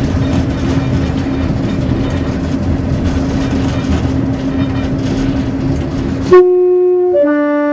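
Class 141 Pacer railbus running along the line, a steady rumble with a low hum, then about six seconds in its two-tone horn sounds: a short higher note followed at once by a longer lower note.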